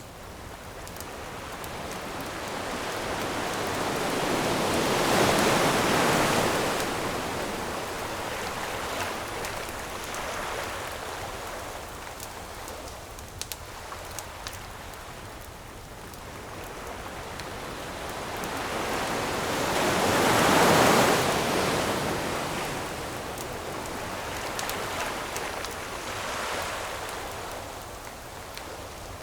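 Ocean waves breaking and washing up the shore, in slow surges: two big waves about five and twenty-one seconds in, with smaller ones between. Faint scattered crackles of a wood campfire sound under the surf.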